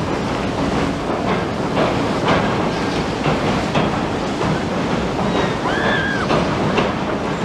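Electric train crossing a steel truss railway bridge: a steady rumble with irregular clacks of the wheels. About six seconds in, a short bird call rises and falls.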